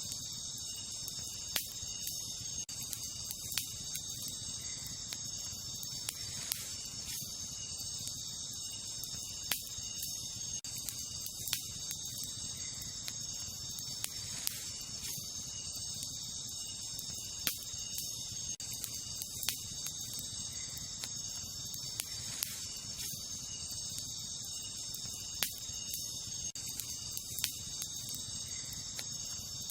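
Wood campfire crackling, with sharp pops every second or two over a low, steady rush of burning. Behind it runs a steady, high-pitched chorus of night insects.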